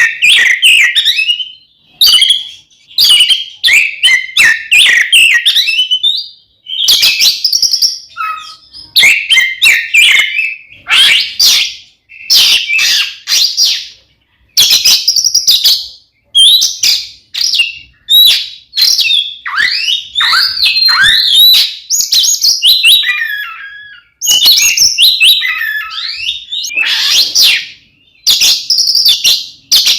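Oriental magpie-robin (kacer) singing loudly in rapid, varied phrases of a second or two each, full of quick whistled and chattering notes, separated by short breaks.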